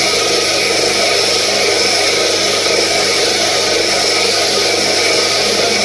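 Electric power tool running steadily at a constant speed, with a steady hum under a broad whirring noise.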